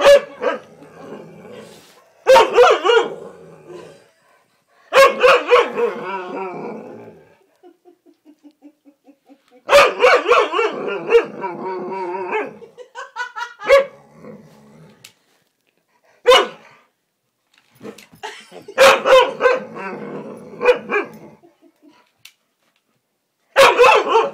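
Husky barking and howling in bursts every few seconds, mixed with a talking toy parrot playing the barks back.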